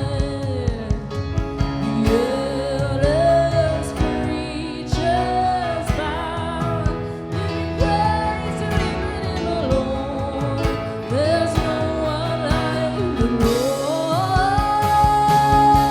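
Live worship band playing, with a singer holding long, sliding notes over drums and bass.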